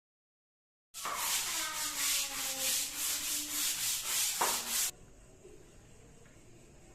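Rhythmic rubbing strokes, about four a second, starting about a second in and stopping abruptly after about four seconds; a faint steady hiss follows.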